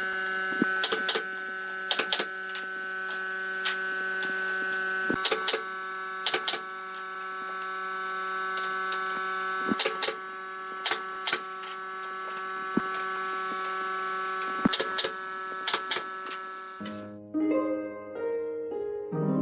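A steady machine hum with several fixed tones, broken by sharp knocks or clicks, some in quick pairs, every second or two. About two and a half seconds before the end it cuts abruptly to plucked, harp-like background music.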